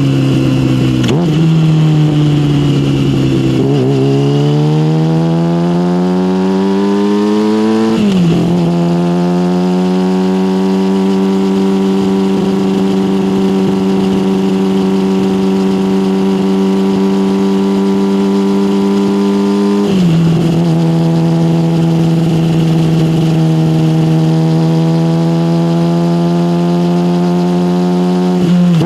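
Yamaha motorcycle with an SC Project aftermarket exhaust riding under throttle. The engine note climbs and drops sharply at upshifts about a second and about eight seconds in, then holds a steady cruise for about ten seconds before a dip and a slow climb again toward the end.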